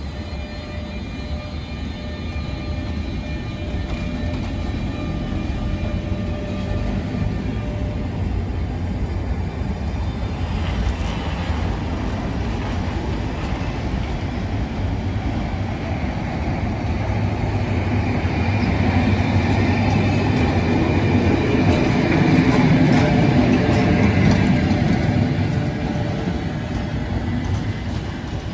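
Class 73 electro-diesel-hauled Network Rail test train pulling out and passing close by: locomotive running and wheels rumbling on the rails, with a few brief cracks from collector shoes arcing on the third rail. It grows louder as the rear locomotive passes, then eases off near the end as it draws away.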